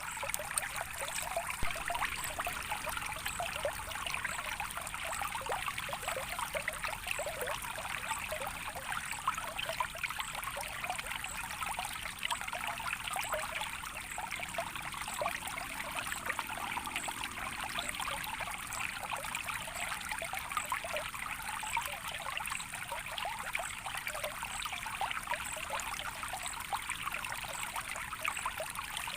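Stream water trickling and babbling steadily: a constant rush dotted with many small splashes.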